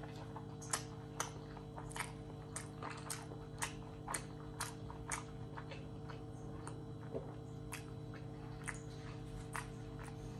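Close-up chewing of a mouthful of rice and curry with the mouth closed. Soft wet mouth clicks come about twice a second, thinning out after about five seconds, over a steady low hum.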